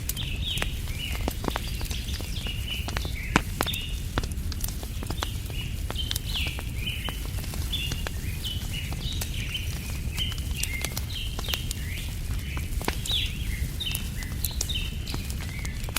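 Campfire crackling with scattered sharp pops, the loudest a little over three seconds in, under birds chirping over and over in short falling calls, with a steady low rumble underneath.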